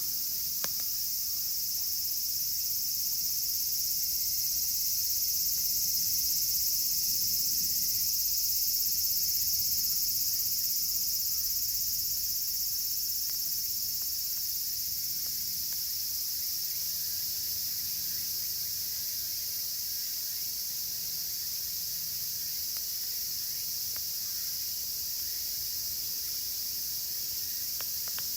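Dense, steady chorus of cicadas buzzing without a break, over the faint low sound of a wood campfire.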